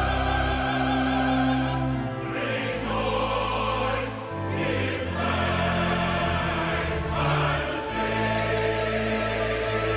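Choir singing with orchestra, sustained sacred-music chords that change every couple of seconds.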